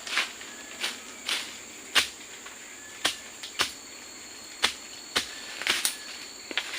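A steady, high-pitched insect drone, with a second, lower steady tone joining about halfway. About ten sharp knocks or snaps fall at irregular intervals over it.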